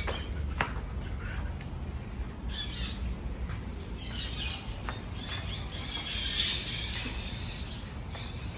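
Birds chirping and calling in scattered bursts over a steady low rumble, with a couple of sharp clicks.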